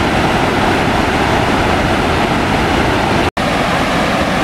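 Waterfall swollen with floodwater after heavy rain: a loud, steady rush of water, broken by a momentary dropout about three seconds in.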